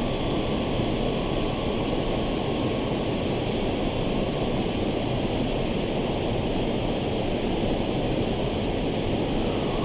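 Pha Suea Waterfall's water falling in a steady, unbroken rush, full and even in level throughout.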